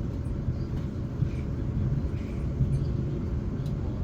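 Class 450 electric multiple unit running, heard from inside the carriage: a steady low rumble of wheels and running gear, with a faint steady hum.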